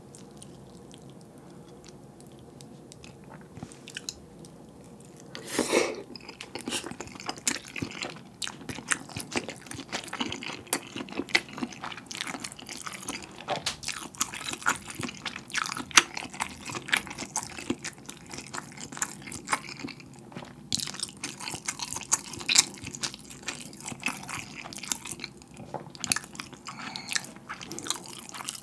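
Close-miked chewing of a rice ball wrapped in fish cake and dipped in spicy tteokbokki sauce. It starts with a loud bite about five seconds in, then goes on as steady mouth sounds full of small clicks and crackles.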